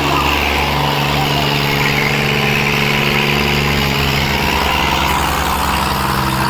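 Diesel tractor engine running steadily with a pulsing low exhaust note.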